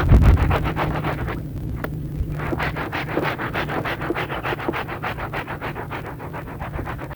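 A muddy rug being scrubbed with rapid, even rubbing strokes, about five or six a second, over a steady low hum.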